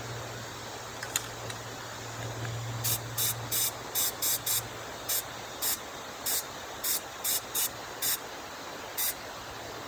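Aerosol can of Flex Seal rubber sealant sprayed in about fourteen short bursts of hiss, starting about three seconds in, over a steady low hum.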